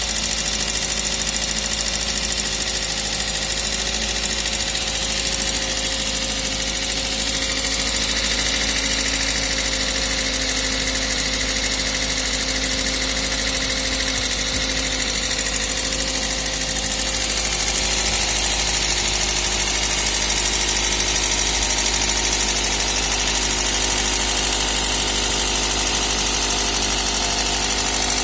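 Toyota 1ZZ four-cylinder petrol engine idling steadily with a ticking valve knock from the valvetrain. It gets slightly louder about two-thirds of the way through.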